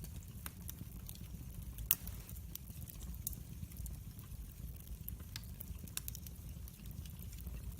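Wood fire in a fireplace crackling: irregular sharp pops and ticks, one louder pop about two seconds in, over a low steady rumble of the flames.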